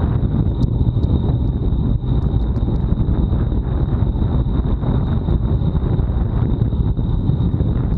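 Wind buffeting an action camera's microphone on a road bike at time-trial speed: a loud, steady low rumble with a thin steady high whine over it.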